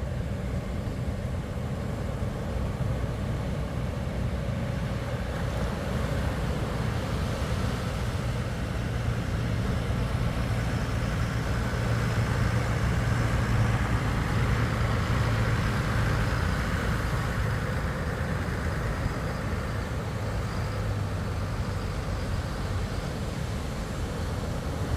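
Engine running steadily with a low hum, swelling a little about halfway through.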